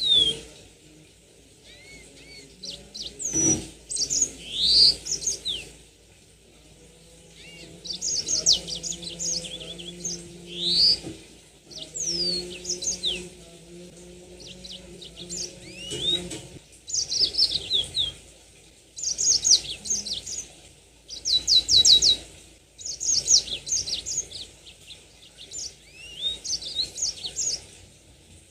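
Yellow-fronted canary (Mozambique canary) singing: bursts of quick chirps, fast rising and falling whistles and rapid trills, phrase after phrase with short pauses between.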